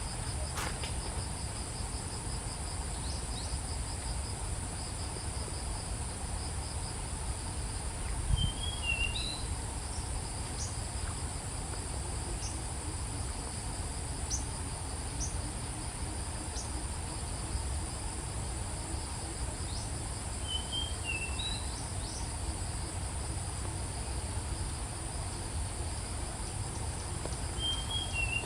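Steady high-pitched insect chorus, one part pulsing rapidly, with a bird giving short chirps three times, about nine seconds, twenty-one seconds and twenty-eight seconds in, over a low rumble.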